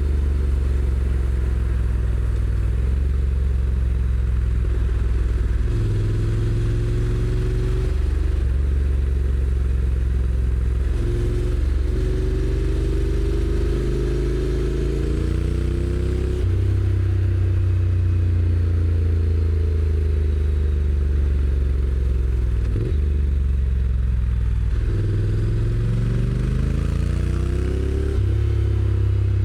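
Honda NC750X DCT's parallel-twin engine on its stock exhaust under way, the revs rising in several sweeps and stepping down at the dual-clutch gearbox's shifts, with a stretch of easing off in between. Wind and road noise run underneath.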